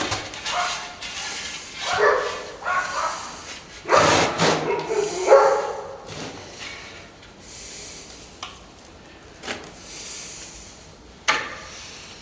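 Several short, pitched yelping calls in the first half, with bending pitch, then a few sharp knocks later on.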